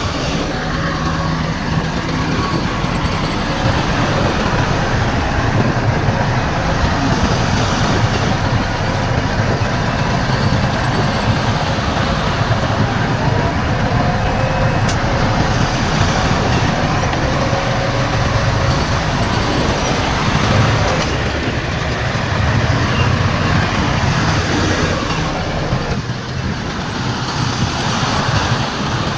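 Heavy diesel earthmoving machinery, a bulldozer and dump trucks, running steadily under load.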